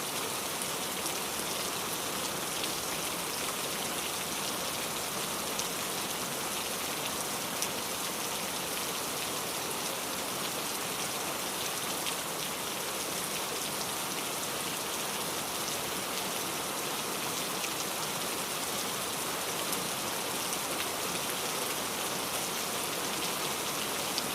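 Steady rainfall, a dense hiss of drops with scattered sharper individual drop ticks landing on a surface.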